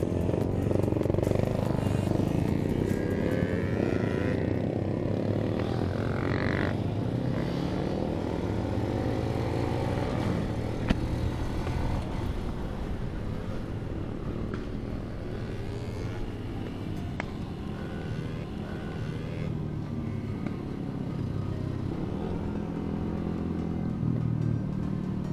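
Yamaha LC135's single-cylinder four-stroke engine running on the move, its pitch rising and falling several times as the rider works the throttle and gears.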